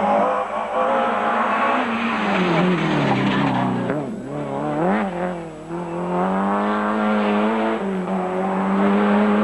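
Rally car engine at high revs, dropping in pitch as the car slows for a tight bend, with two quick blips of the throttle about four and five seconds in. It then revs back up and holds high as the car accelerates away.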